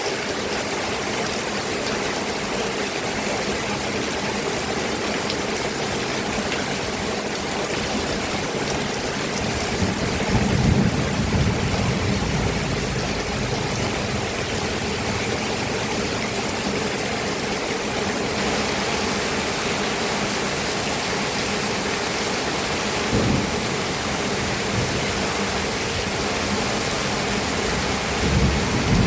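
Steady rain falling, with low rumbles of thunder swelling about ten seconds in, briefly again later, and near the end.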